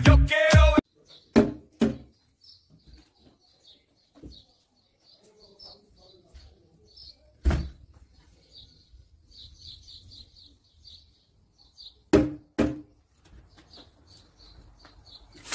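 Small bird chirping faintly in quick, repeated high notes, with a few sharp knocks scattered through, the loudest about halfway and two close together near the end. Dance music with a beat cuts off just under a second in.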